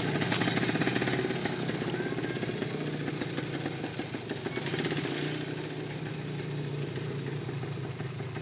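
Motorcycle engine running with a rapid, steady firing pulse, gradually getting quieter.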